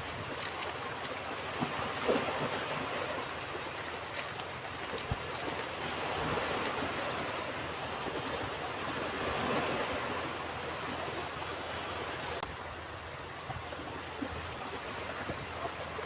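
Ocean surf washing onto a beach: a steady rush of breaking waves that swells and eases in slow surges.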